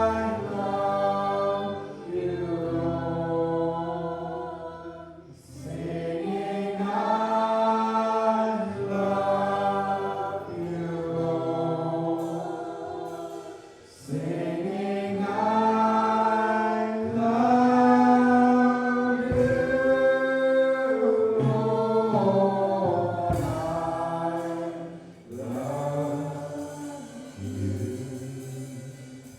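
Music with choral singing in long held phrases, dipping briefly about five and fourteen seconds in.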